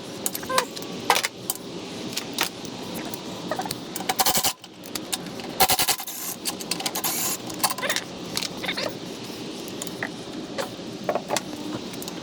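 Loose metal parts and bolts clinking and clattering as they are handled, with irregular sharp clicks and a couple of denser bursts of rattling about four and six seconds in.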